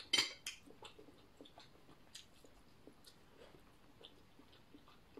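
A person chewing food close to the microphone: faint, scattered small clicks of the mouth, with one short louder noise just after the start.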